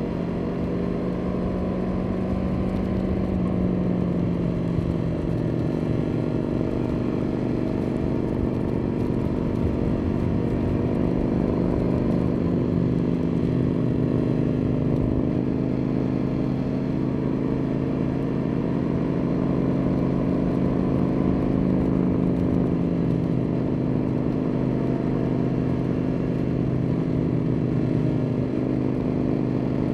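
Motorcycle engine running steadily at a constant road speed while riding, its pitch shifting only slightly, over a low wind rumble.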